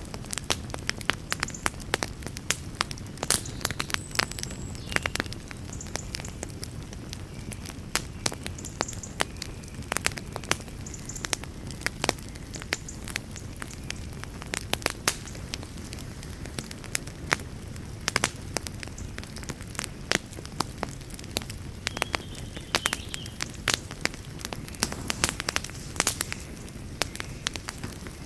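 Wood campfire crackling: irregular sharp snaps, several a second, over a low steady rush.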